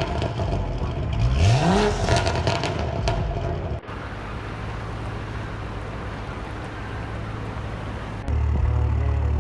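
Sports car engine revving up hard, its pitch climbing steeply for a moment with crackles on top. About four seconds in, it gives way to a steady low engine drone, which turns louder near the end.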